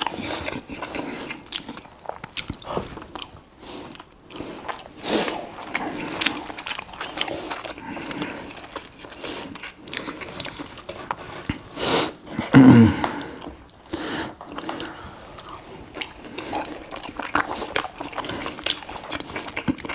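Close-miked chewing and biting of burger patties and rice, with knife and fork clicking and scraping on the plate. About twelve and a half seconds in comes a short low sound that falls in pitch, the loudest thing here.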